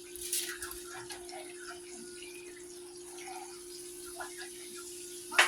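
Water running from a kitchen tap into the sink, over a steady low hum. A sharp clink, like a dish or utensil striking, comes near the end.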